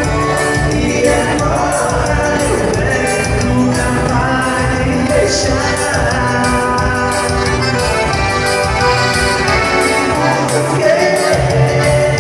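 Live band dance music with a steady beat.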